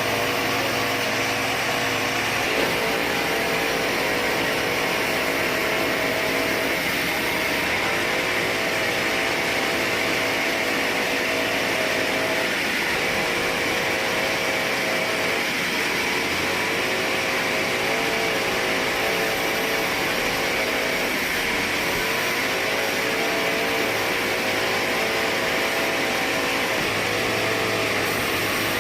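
Sawmill machinery running steadily and loudly, with a hum whose pitch dips briefly a few times.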